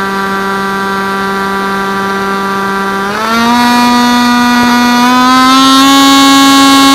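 FPV quadcopter's electric motors whining at a steady pitch, then about three seconds in the throttle is raised: the whine jumps higher and louder, climbs slowly, and eases off slightly near the end.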